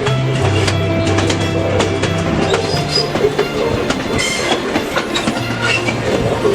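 Passenger train car riding over the rails, its wheels and body clicking and rattling steadily, with music playing underneath.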